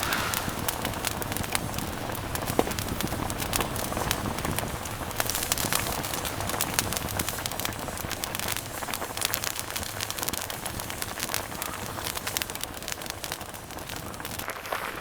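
Wood campfire crackling, with many small snaps and pops over a steady hiss.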